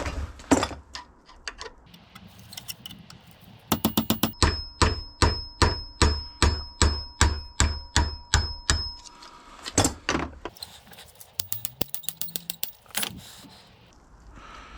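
Hammer striking metal parts of a seized hydraulic jack: a quick run of sharp blows, about three a second, with a metallic ring, plus a few single knocks before and after.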